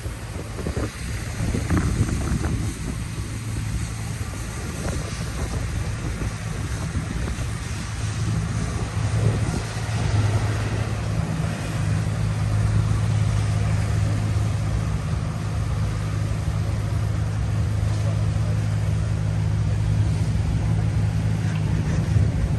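Wind buffeting the microphone over street traffic. From about a third of the way in, a nearby vehicle engine hums steadily at a low pitch.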